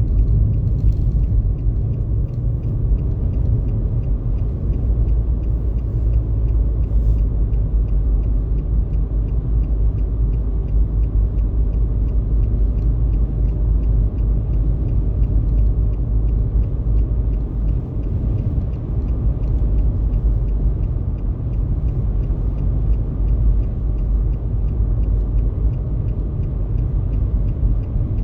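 Steady low rumble of a car on the move, running unbroken, with faint rapid ticking above it.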